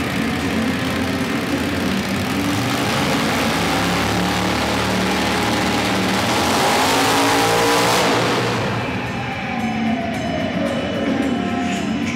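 Monster truck engine running hard, its revs climbing to a loud peak about eight seconds in, then cutting off suddenly and winding down in pitch.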